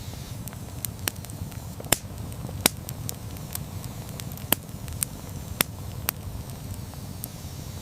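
Campfire burning with a steady low rumble of flame and irregular sharp pops and crackles of burning wood, the loudest pop a little under 3 seconds in.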